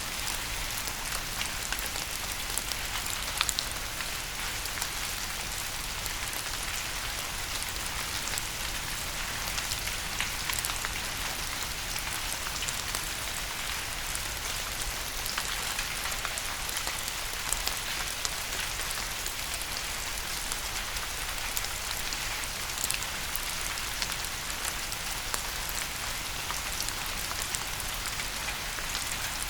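Steady rain falling on a surface, with a dense hiss and scattered sharper drop ticks.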